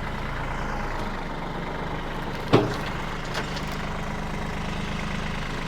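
Bad Boy 4025H compact tractor's diesel engine running steadily, with one sharp knock about two and a half seconds in.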